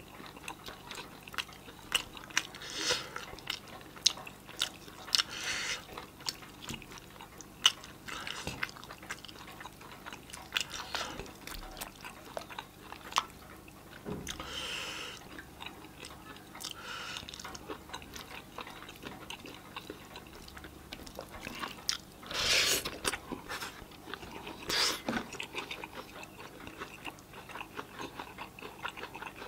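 Close-miked eating sounds: a man chewing roast chicken and rice eaten by hand, with many sharp mouth clicks and smacks. Several longer, louder mouth sounds come in between, the loudest about two-thirds of the way through.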